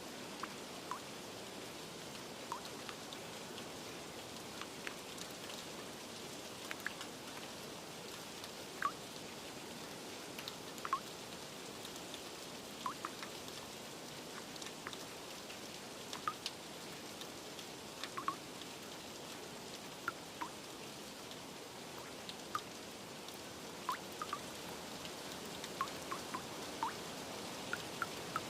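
Steady rain, with scattered single drips landing close by on an irregular beat.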